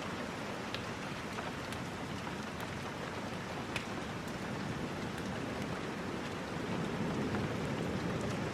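Steady rain, an even hiss with a low rumbling wash, with a few faint sharp ticks scattered through it, one a little louder about four seconds in.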